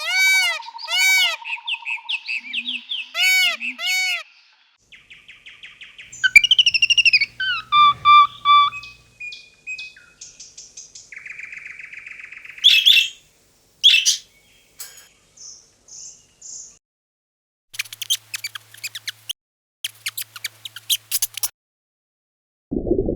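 A series of different bird calls and chirps: repeated arching chirps at first, then trills, whistled notes and sharp clicking calls, in short separate bursts with sudden breaks between them.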